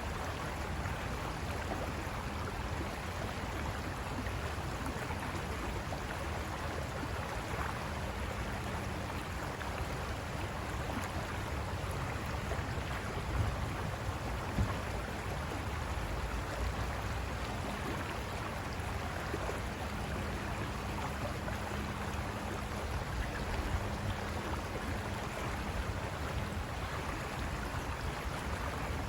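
River water rushing steadily over rocks, with two brief louder moments about halfway through.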